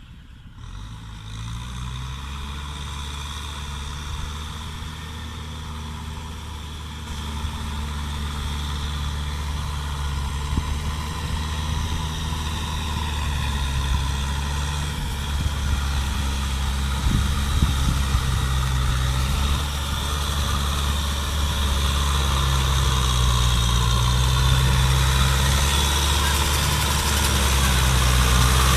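Kubota M6040 tractor's diesel engine running steadily, growing gradually louder.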